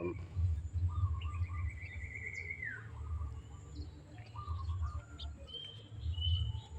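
Young long-tailed shrike (pentet) calling: a long buzzy trill that drops in pitch at its end, followed by shorter pulsed calls and high chirps, over a low rumble.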